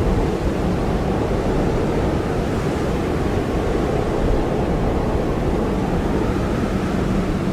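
Blizzard wind blowing steadily and heavily: a deep, even rush with no pauses.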